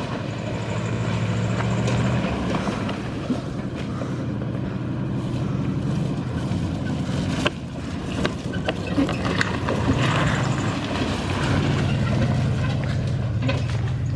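Old Jeep truck engine running under load while driving off-road, its pitch and loudness shifting with the throttle. Scattered knocks and clicks sound over it, one sharp knock about halfway through.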